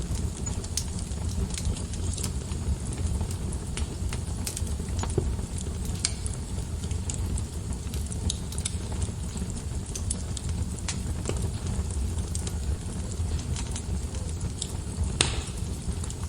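Fireplace fire burning with a steady low rumble and scattered crackles and pops, one louder pop near the end.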